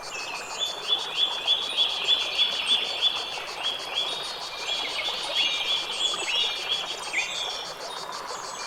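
Birdsong: a bird repeating a short rising chirp about three times a second for the first few seconds, then more varied chirps, over a steady outdoor hiss with a fast, even high-pitched pulsing behind it.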